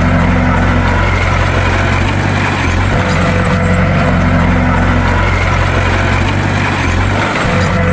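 Bulldozer's diesel engine running steadily: a loud low drone with a brief dip near the end.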